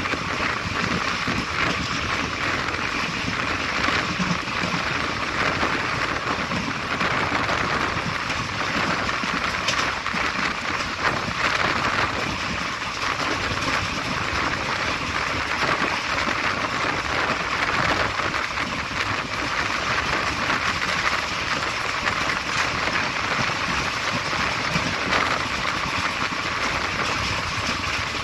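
Steady rushing noise of a moving passenger train heard from an open coach doorway: wheels running on the rails and air rushing past, with no let-up.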